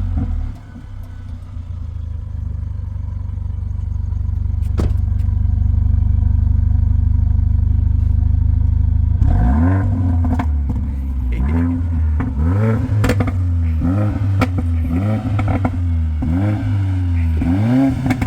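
Stock Mercedes-AMG A45's turbocharged 2.0-litre four-cylinder engine running steadily and growing louder for about nine seconds, then revved in a quick series of throttle blips, about one a second.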